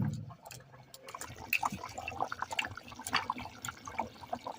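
Chicken curry (kosha) bubbling in a pot on the fire, a busy run of small wet plops and pops. There is a low thud right at the start.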